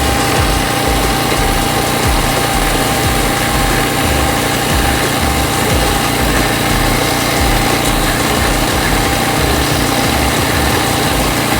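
Wing mower's small engine running steadily at constant speed, with a thin steady tone over the engine.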